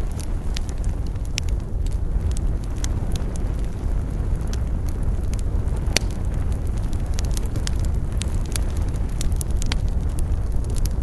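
Wood fire crackling in a fireplace: a steady low rumble of burning with frequent irregular sharp pops and snaps, one louder pop about six seconds in.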